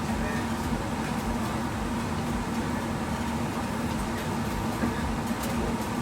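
Steady mechanical hum with air noise, holding a low steady tone, with a few faint clicks.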